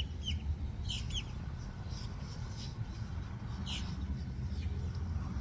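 Wind rumbling on the microphone, with a bird chirping a few short calls over it: near the start, about a second in, and again near four seconds.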